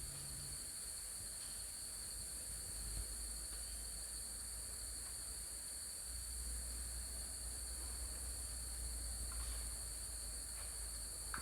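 Steady, high-pitched chorus of insects, with a faint low rumble underneath.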